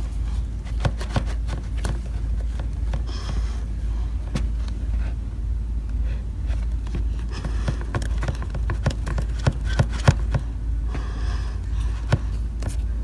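Homemade slime being mixed and worked by hand as activator is added, giving scattered small sticky clicks, over a steady low rumble.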